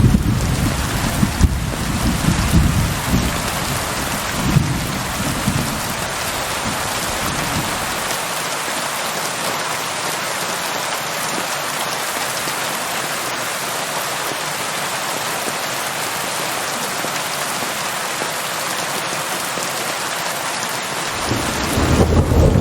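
Steady heavy rain with a rolling rumble of thunder that dies away after about seven seconds; near the end a new roll of thunder begins.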